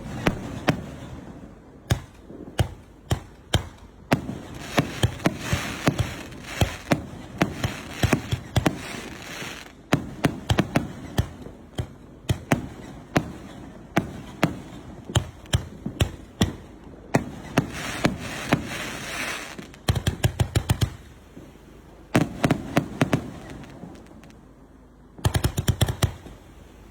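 A 3-inch display-shell fireworks cake firing shot after shot: sharp launch reports and shell bursts in quick succession, with crackling between them. There are two very rapid volleys, about 20 seconds in and near the end.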